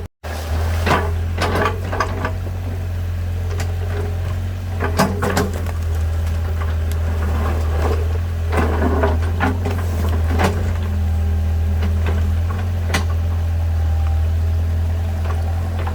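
A low, steady engine rumble with irregular knocks and clatters over it.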